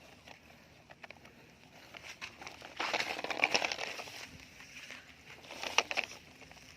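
Sand grating and crackling as a plastic toy truck and bulldozer shift it about, with small plastic clicks; the gritty scraping is densest about three to four seconds in, and there is a sharp click near the end.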